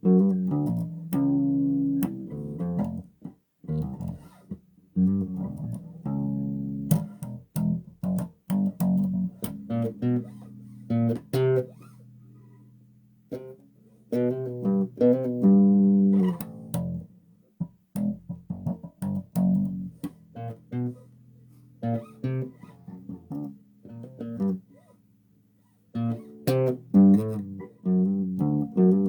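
Solo bass guitar played in short plucked phrases, with brief pauses between them.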